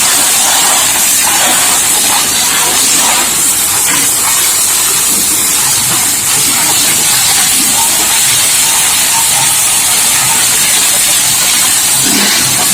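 High-pressure water jet from a booster pump spraying steadily, an even loud hiss.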